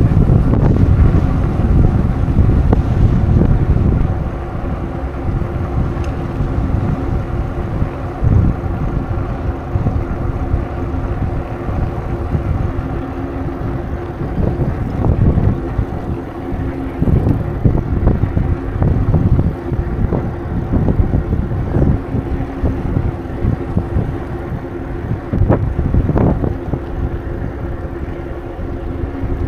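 Wind buffeting a microphone on a moving bicycle, a heavy fluctuating rumble, with a steady hum running underneath.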